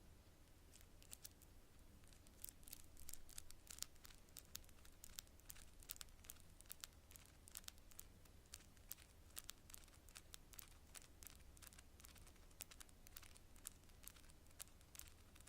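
Long natural fingernails tapping on cards: quick, irregular, crisp clicks, several a second, faint.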